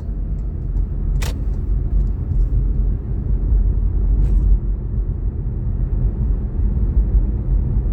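A car driving: a steady low rumble of road and engine noise, with a sharp click about a second in.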